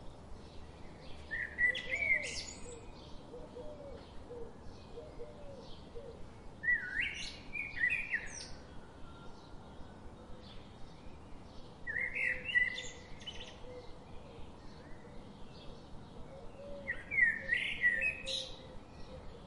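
A songbird singing a short, high phrase four times, roughly every five seconds, with faint chirping of other birds in between.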